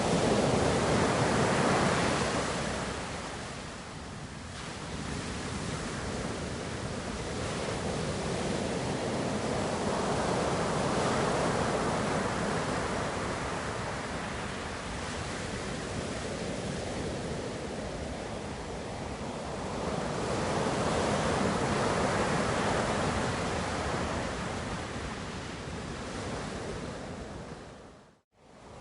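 Ocean waves breaking and washing on a shore, swelling and easing in a slow rhythm of about three surges, one every ten seconds. The sound cuts out for a split second near the end.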